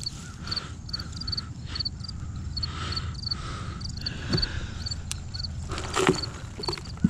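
A steady series of short, high double chirps repeating a few times a second, with low wind rumble. A few sharp clicks and a louder rustle about six seconds in come from hands pulling potatoes out of straw mulch.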